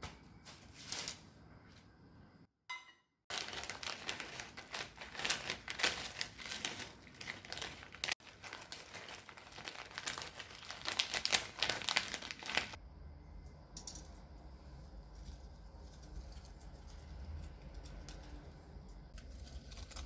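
Crinkling and rustling, like material being crumpled or handled, busiest for several seconds after a brief gap near the start. After that it gives way to a quieter low steady hum.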